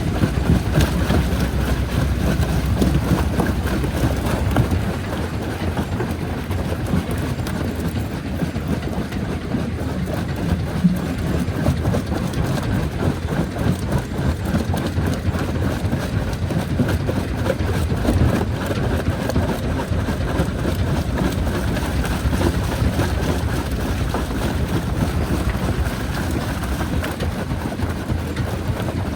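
Jaw crusher running under load, crushing rock: a steady heavy rumble with a dense crackle and rattle of breaking stone. The deepest part of the rumble eases off about five seconds in.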